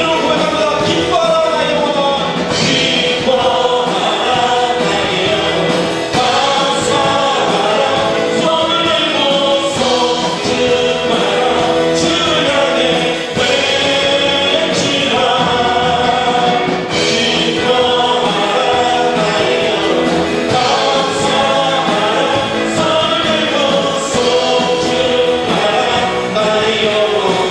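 Contemporary worship music: a group of voices singing a praise song with band accompaniment and a steady beat.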